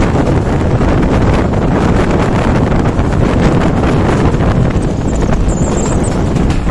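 Express train passing close at speed: a loud, steady rumble with a rapid clatter of wheels over the rails, and wind buffeting the microphone.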